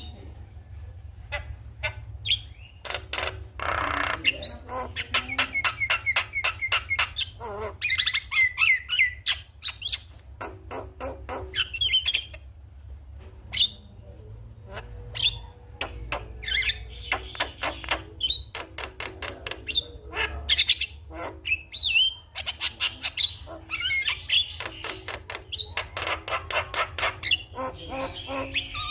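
Javan myna song: fast trains of sharp clicks and chattering, broken by whistled and harsh squawking notes, coming in bouts, over a steady low hum.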